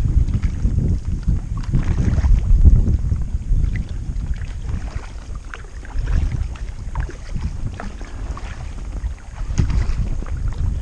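Wind buffeting the microphone in gusts, with light water splashes from paddling the inflatable kayak. The gusts swell strongest in the first few seconds and again near the end.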